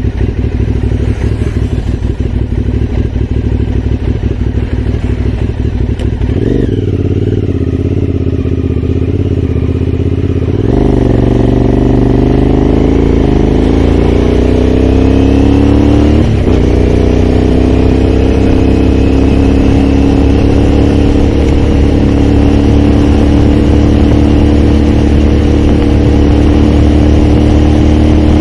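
Aprilia Shiver's V-twin engine heard raw while riding. It pulls at low revs, eases off for a few seconds, then rises in pitch under acceleration from about 11 seconds in. The pitch drops suddenly at a gear change about 16 seconds in, and the engine then runs steadily, slowly climbing.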